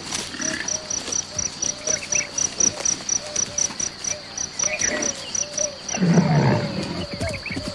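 Forest ambience: an insect chirps in a rapid even pulse of about four a second over a steady high whine, and a short call repeats lower down. About six seconds in comes a short, low, rough growl from a large animal.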